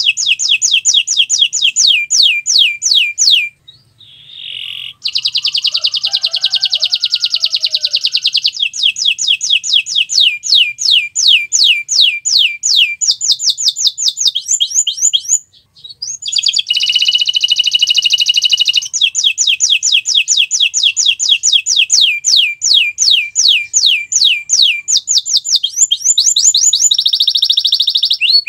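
Domestic canary singing loudly: long runs of rapid down-slurred trills and sustained buzzy rolls, broken by two brief pauses.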